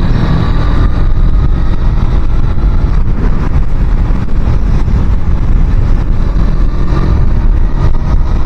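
Wind buffeting a helmet microphone, loudest of all, over a small-capacity motorcycle engine running steadily at high revs on the move.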